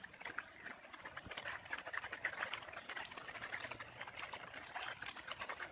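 Faint floodwater running, with an irregular patter of ticking drops.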